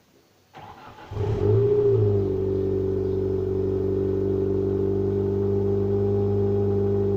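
2002 Nissan Sentra's four-cylinder engine on its stock exhaust starting: a brief crank about half a second in, the engine catching after about a second with a short flare in speed, then settling into a steady idle.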